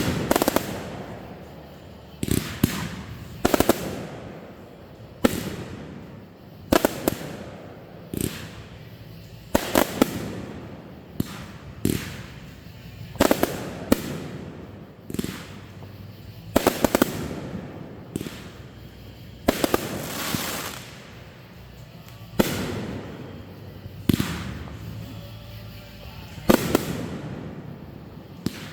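Aerial fireworks bursting: sharp bangs every one to two seconds, each trailing off in an echoing rumble.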